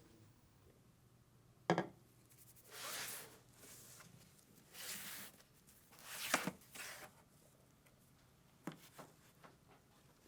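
Hand work on machine-gun parts: a sharp click, then three short rasping, hissing strokes about every second and a half, and a few light clicks near the end.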